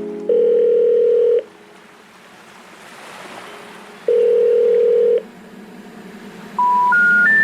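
Telephone tones: two long steady beeps about three seconds apart, then three short tones stepping up in pitch near the end. The three rising notes are the special information tone that a phone network plays when a call cannot be completed, ahead of a recorded announcement.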